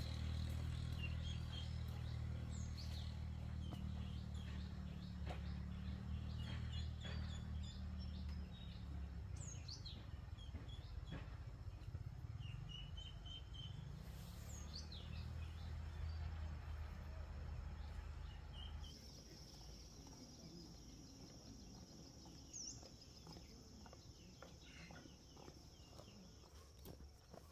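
Birds chirping in short falling calls over a steady low hum that cuts off abruptly about two-thirds of the way through. After that, a faint steady high tone and a few scattered chirps remain.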